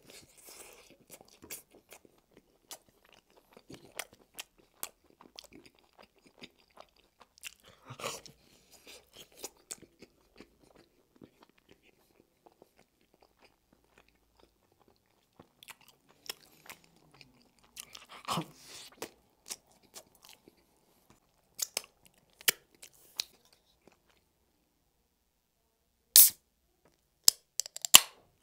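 Close-miked chewing and biting of a frozen ham-and-pineapple pizza: small wet mouth clicks and crust crunches, with bigger bite sounds at the start, about 8 seconds in and about 18 seconds in. Near the end come a few sharp, loud clicks as the beer can is handled.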